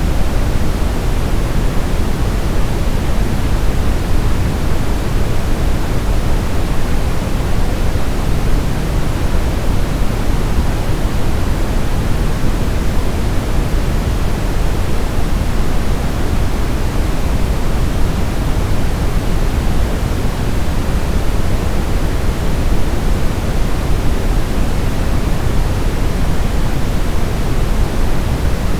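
Steady synthetic noise for baby sleep, weighted toward the low end like pink noise, even and unchanging throughout.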